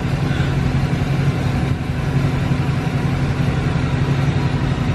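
A vehicle engine running steadily at idle, a constant low hum with no change in speed.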